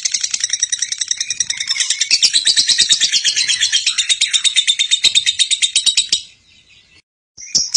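Lovebird ngekek: a long, fast, unbroken chattering trill of high-pitched clicks. It cuts off about six seconds in and starts again just before the end.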